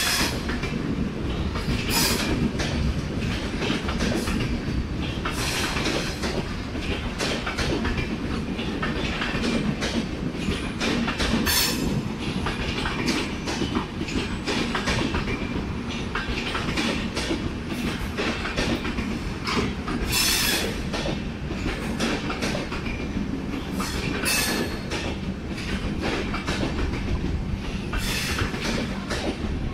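Indian Railways LHB passenger coaches rolling past a platform: a steady rumble with repeated clacks of the wheels running over rail joints.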